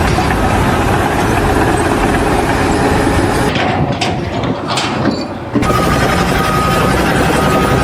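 An engine running loudly and steadily, broken off abruptly about three and a half and again about five and a half seconds in.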